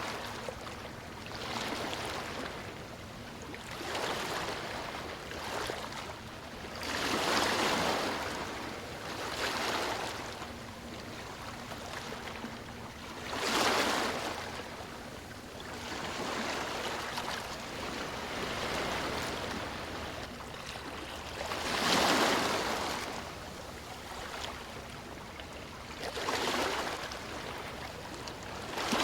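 Sea waves washing onto a beach, the surf rising and falling in an uneven rhythm every few seconds. Three bigger waves break: about a quarter of the way in, near the middle, and about three quarters in.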